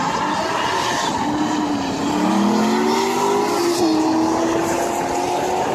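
Drift car's engine pulling hard, its pitch climbing over about two seconds and then holding steady, over a broad steady hiss.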